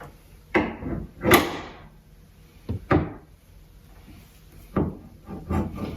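The hood of a 2014 Ford Mustang being lowered and shut, with four separate thumps, the loudest about a second in.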